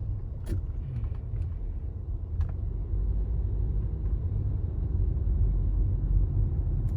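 Steady low outdoor rumble, with a couple of faint clicks.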